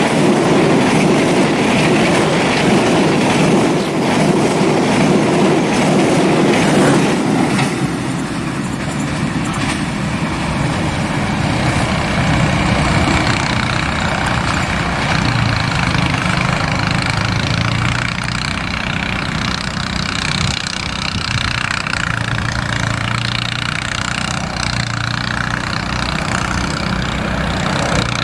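Passenger train coaches rolling past close by at speed, wheels rattling over the rails. About seven or eight seconds in the sound drops as the last coach goes by, and the train's rumble fades into the distance with a low steady hum.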